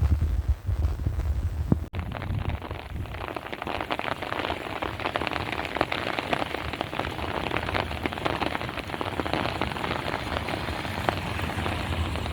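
Heavy rain falling, a dense steady patter of drops. For the first two seconds, before a sudden cut, there is only a low rumble.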